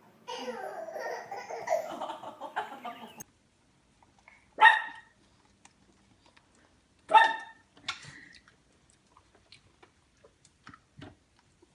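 A dog barking twice, two sharp single barks about two and a half seconds apart. Before them comes about three seconds of a child's voice that cuts off suddenly.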